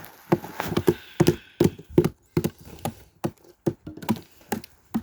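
Ice being chopped up: a regular run of short, sharp knocks, about three a second.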